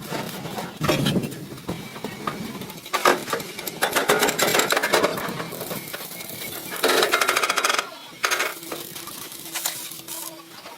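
Metal parts and tools clinking and clattering, with irregular knocks and bursts of rattling, as in hand work at a metal workshop bench.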